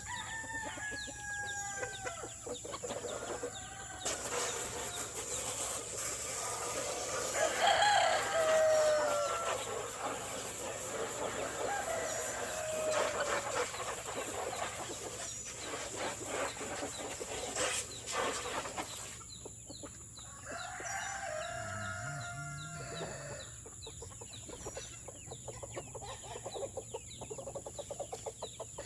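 Roosters crowing several times, the loudest crow about eight seconds in, with hens clucking between the crows.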